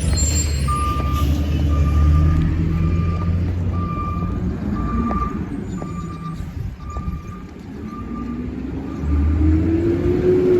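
Compost truck's reversing alarm beeping steadily, about nine beeps, over its engine running. Near the end the engine revs up and back down.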